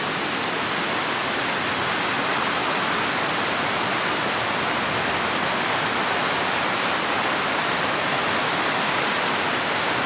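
Spokane River rapids: fast white water rushing, a steady, even noise with no breaks.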